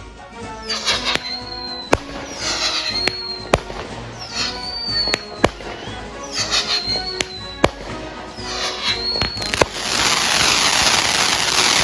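Consumer fireworks going off: about every two seconds a shot bursts with crackle and a short whistle, with sharp bangs in between. About ten seconds in, a dense, loud crackling hiss takes over.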